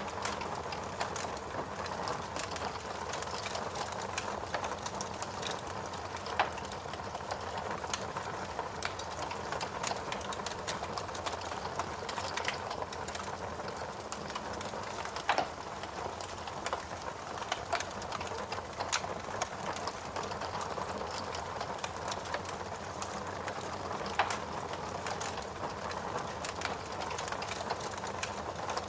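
Wood fire burning in a fireplace: a steady hiss with many small crackles, and a sharper pop about every nine seconds.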